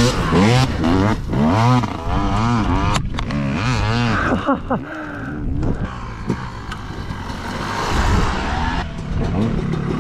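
Dirt bike engine revving up and down again and again in quick swells, then running steadier, with a rougher, hissing stretch near the end.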